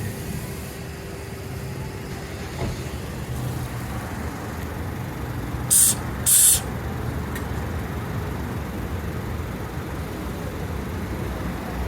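A vehicle engine running steadily with a low rumble, with two short, loud hisses close together about six seconds in.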